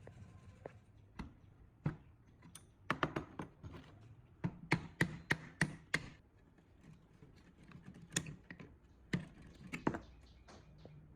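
Irregular sharp taps and clicks of tools and metal parts being handled at a workbench, with a quick run of about five taps near the middle.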